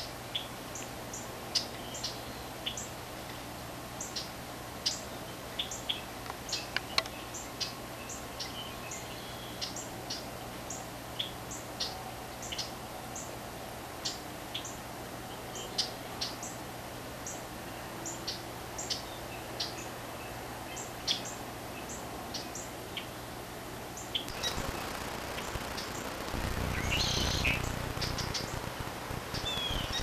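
Small birds chirping: short, high chip notes repeated about twice a second. A low rumbling noise comes in over the last few seconds.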